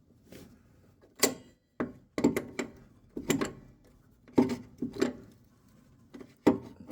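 A string of sharp metal knocks and clanks, about eight in all at irregular spacing, each with a short ring: the sill end plate on the MX-5's sill being knocked and worked into position so its spot-weld holes line up.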